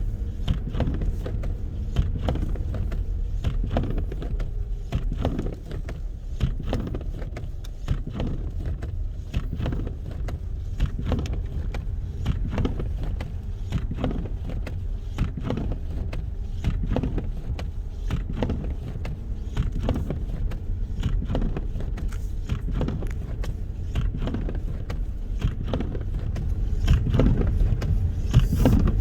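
Wind buffeting the microphone in a snowstorm: a steady low rumble with frequent short, irregular crackles.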